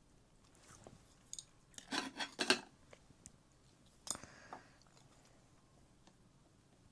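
Eating shellfish: short bursts of crisp clicking and crunching, a dense cluster about two seconds in and a single sharper crack about four seconds in.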